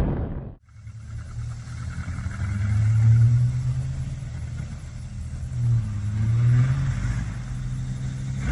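A loud rushing noise cuts off sharply just after the start, then an engine runs with a low hum whose pitch rises and falls, swelling louder about three seconds in and again near seven seconds.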